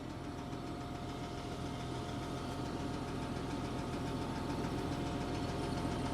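Auger truck's engine running steadily, with a thin steady whine over it as the hydraulic controls drive the auger; the sound slowly grows louder.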